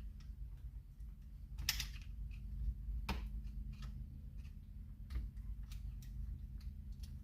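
Light, irregular clicks and taps of chainsaw parts and tools being handled during disassembly, with a louder scrape a little under two seconds in. A steady low hum runs underneath.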